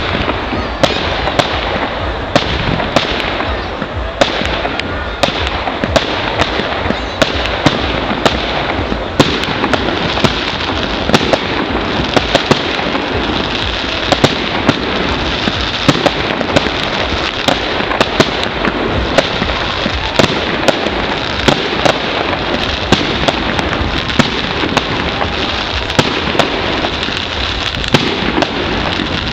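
Fireworks display: continuous crackle with many sharp bangs from bursting shells, several a second.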